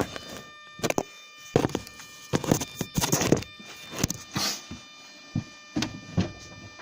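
Chevrolet Lacetti engine knocking: irregular clusters of sharp knocks and clicks, thickest about halfway through, over a faint steady high whine. The owner does not know the cause.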